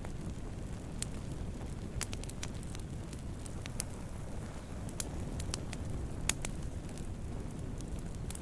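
Wood campfire burning: a steady low rush of flames with scattered sharp crackles and pops from the burning wood, a few louder pops standing out.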